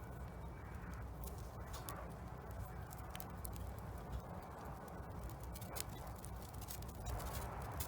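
Wood fire crackling in a Solo Stove Bonfire fire pit, with irregular sharp pops and snaps. A steady low rumble runs underneath.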